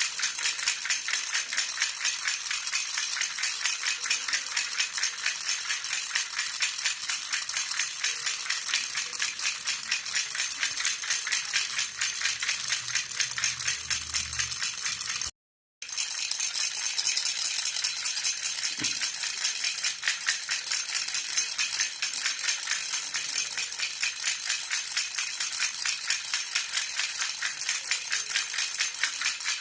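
Silver jhunjhuna (Indian baby rattle) shaken steadily and fast, a dense continuous jingle of small metal pieces. It cuts out completely for about half a second midway, then resumes.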